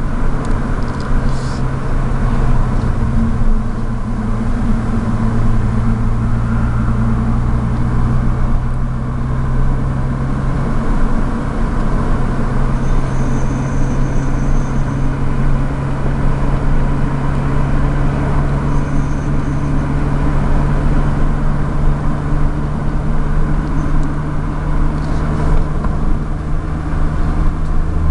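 Hyundai Tiburon running with a steady, loud low drone made of a few held low tones that shift only slowly, carrying an unidentified noise that the owner wants diagnosed.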